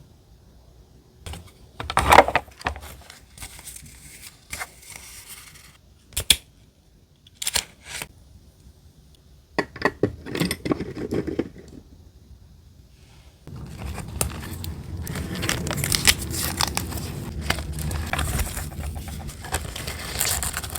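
Paper crafting sounds from diary decorating: scattered crinkles, taps and rustles of paper and stickers being handled, then from about two-thirds of the way in a continuous rustling scrape of paper being worked.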